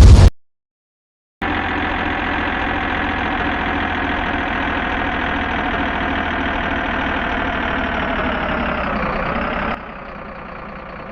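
Heavy-equipment engine idling steadily, starting about a second in. Near the end its pitch sags slightly and it drops to a quieter level.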